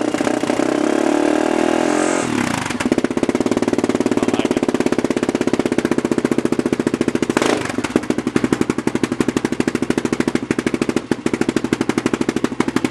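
2001 Honda ATV's single-cylinder four-stroke engine running just after a cold start, having sat about two months: a higher, faster run for the first two seconds, then a steady chugging idle, with a brief blip of throttle about seven and a half seconds in.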